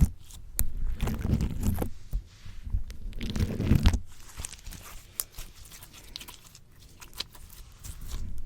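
Slime squished and pulled on a microphone: close, sticky, wet squelching in two longer bursts, with small sharp pops and clicks between them.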